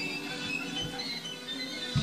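Music playing from a television broadcast of a fireworks show, with sustained instrumental notes and a few short low thumps, one under a second in and one at the end.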